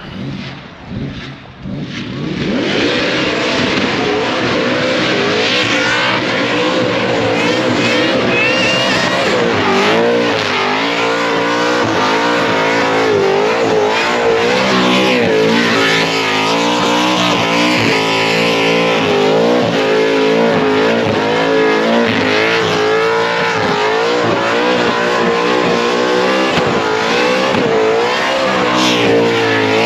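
Blown 510-cubic-inch big-block Chevrolet V8 with a 14/71 supercharger and full exhaust, loud from about two seconds in and held at high revs in a burnout, the revs swinging up and down continuously, with spinning-tyre noise underneath.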